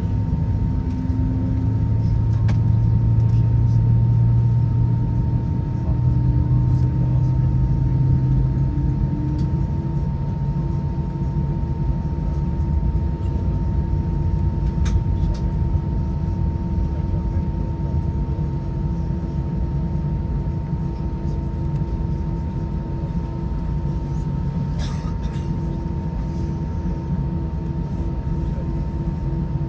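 Airbus A320's IAE V2533-A5 engines, heard from inside the cabin, spooling up for takeoff: their tones rise in pitch over roughly the first ten seconds, then hold steady at takeoff thrust over a loud low rumble from the takeoff roll.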